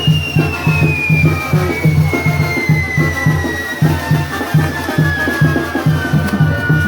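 Live brass band music with a steady, even drum beat, about two to three beats a second. Over it a single high whistle slowly falls in pitch throughout.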